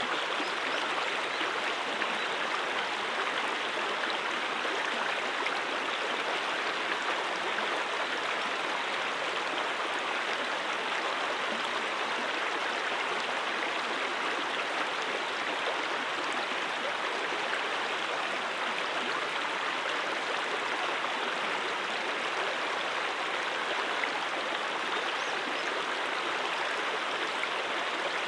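Brook water running in a steady, even rush, with no pauses or changes.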